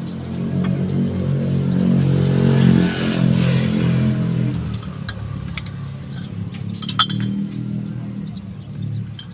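A few sharp metallic clinks, typical of tools or suspension parts being handled, in the second half. Under them is a low steady hum, like a vehicle engine, that swells and then fades.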